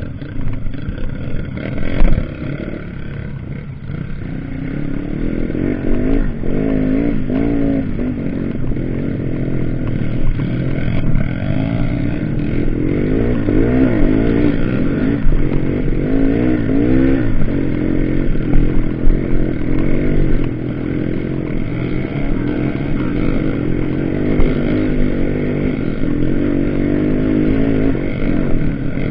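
Several off-road trail motorcycles running and revving, their engine pitch rising and falling over and over.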